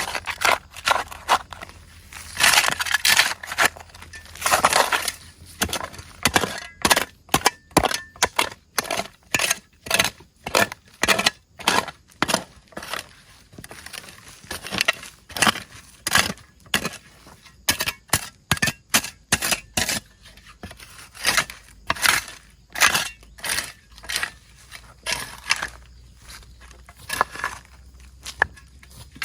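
A long series of sharp cracks and knocks from wood being worked by hand, about two a second, with a few longer crunches in the first few seconds.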